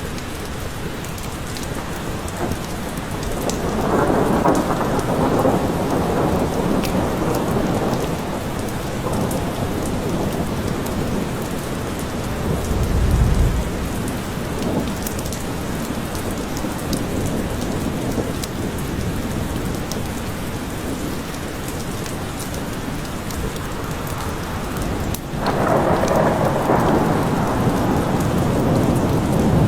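Steady rain falling in a forest, with small drip ticks, and rolling thunder. A long rumble swells about four seconds in, a deep low boom comes about thirteen seconds in, and another rumble starts near the end.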